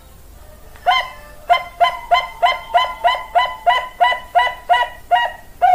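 A Bangkok-strain perkutut (zebra dove) calling: one short note, then a quick run of about a dozen short, evenly spaced notes, roughly three a second.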